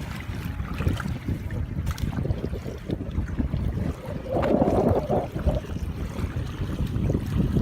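Water sloshing and splashing outdoors, with low wind rumble on the microphone; a louder splashing burst about four and a half seconds in.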